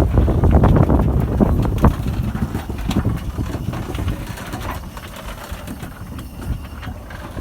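Narrow-gauge steam train running, with wind buffeting the microphone; the rumble gradually fades over the last few seconds.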